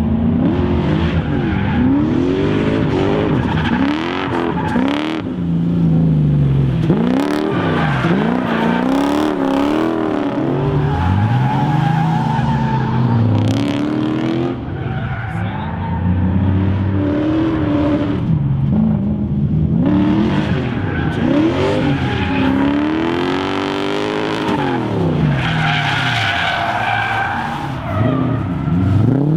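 The Mazda B2200 drift truck's swapped Lexus 1UZ V8 revving up and down over and over through a drift run, its pitch rising and falling every second or two, with tyres squealing.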